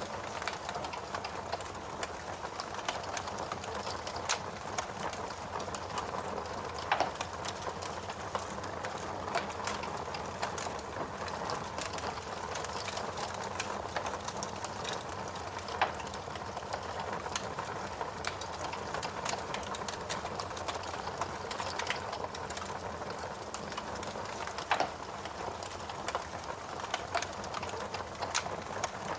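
Wood fire crackling in a fireplace: a dense stream of small crackles over a soft hiss, with a few louder pops now and then.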